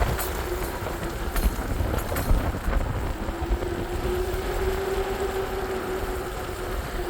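A vehicle on the move: a steady hum whose pitch wavers slightly, over low rumble and wind noise on the microphone.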